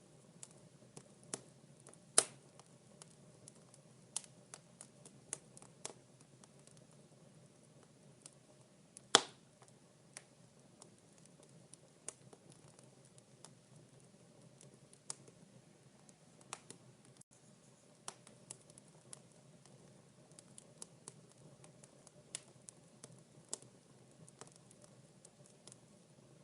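Wood fire in a fireplace crackling: irregular sharp pops and snaps, two louder pops about 2 and 9 seconds in, over a faint steady low hiss.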